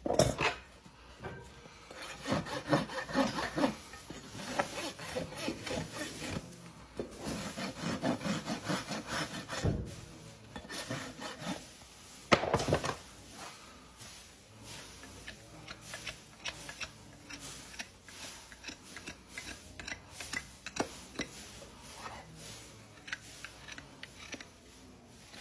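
A horse's hoof being scraped and rasped with farrier's tools, in runs of quick repeated strokes, with a couple of sharper knocks.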